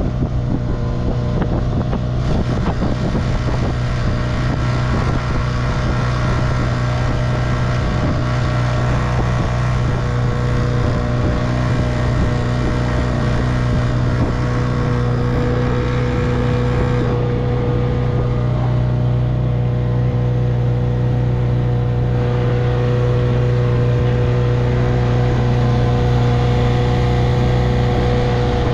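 1958 Evinrude 3 hp two-stroke outboard motor running at a steady speed under way, with some wind on the microphone.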